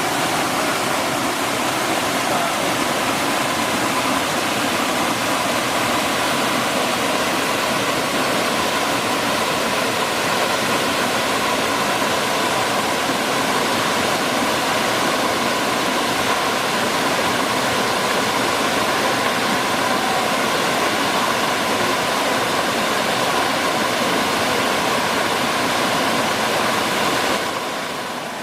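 Waterfall: a steady, loud rush of falling water, dipping briefly at the very end.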